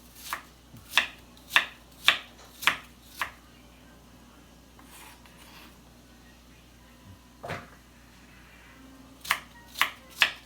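Knife chopping vegetables on a cutting board: six even strokes at about two a second, a pause with a single stroke, then four more quick strokes near the end.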